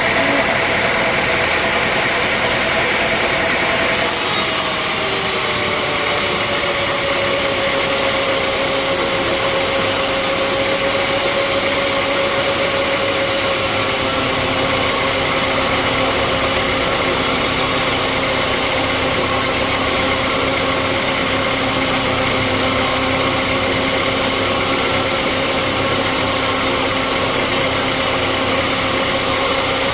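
Sawmill machinery running steadily: a constant motor hum and noise with a steady whine that drops slightly in pitch about five seconds in.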